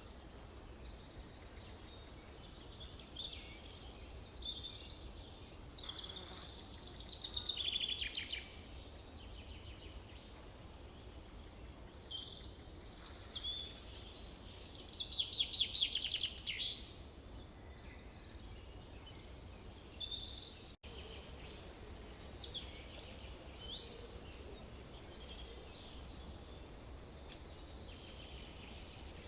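Forest birdsong: several songbirds chirping and whistling over a low steady rumble. Two rapid trills swell to the loudest moments, about a quarter of the way in and again just past halfway.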